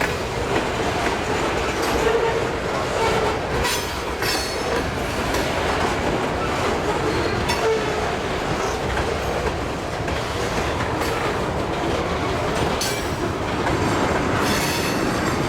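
Freight train cars rolling past close by, their steel wheels clicking over the rail joints in an irregular clatter, with a faint wheel squeal coming and going.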